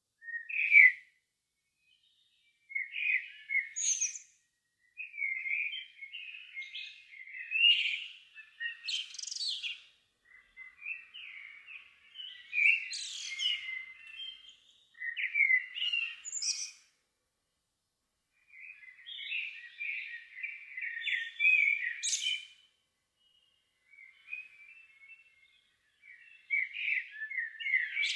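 Songbird singing in short phrases of varied high chirping notes, each a second or a few seconds long, separated by brief pauses.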